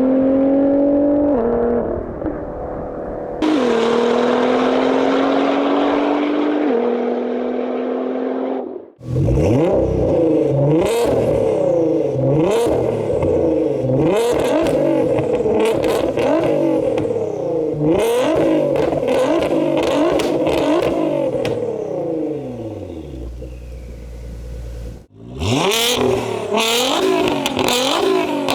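Nissan GT-R R35's twin-turbo V6 through an aftermarket exhaust, accelerating hard with its pitch climbing and dropping at each upshift. About nine seconds in it cuts to the stationary engine revved over and over, each rev rising and falling quickly.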